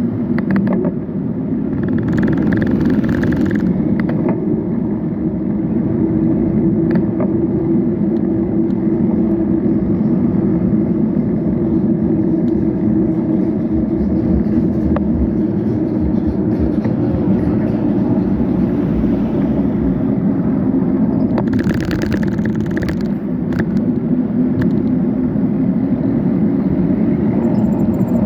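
Steady road-vehicle drone of a street ride, with a low pitched hum running throughout. There is a short hiss about two seconds in and another about twenty-two seconds in.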